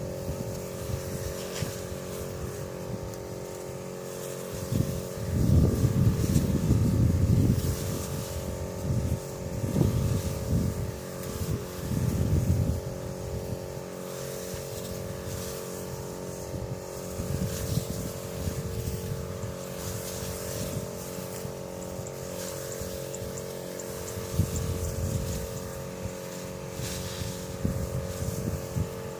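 A steady motor hum, with irregular low rumbles coming and going, loudest for a few seconds about five seconds in.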